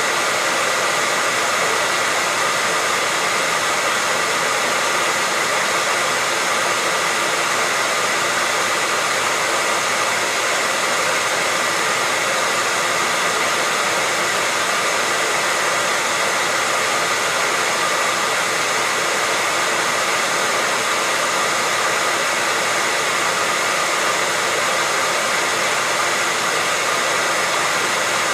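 Hair dryer running continuously at a constant setting: a steady rush of blown air with a faint, unchanging whine from its motor.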